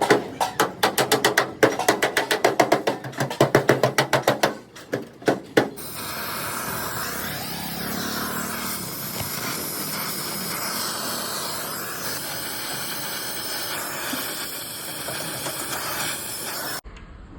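Rapid knocking, about six sharp strikes a second, for roughly six seconds, then a steady loud hiss that cuts off suddenly near the end.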